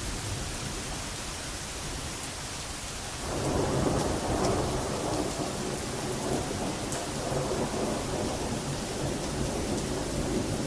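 Steady rain falling, then about three seconds in a long roll of thunder sets in suddenly and rumbles on, rising and falling, to the end.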